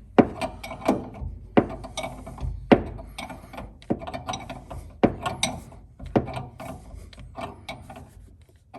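Ratcheting combination wrench clicking as it is worked back and forth on a fuel-tank fitting, with repeated sharp metal knocks about once or twice a second.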